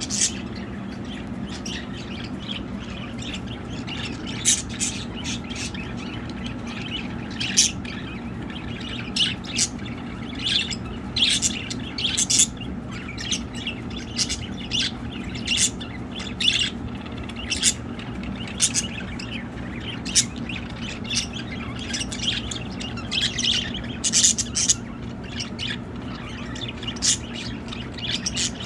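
Pet budgerigars chirping and chattering, with many short, high calls and occasional squawks throughout, over a steady low hum.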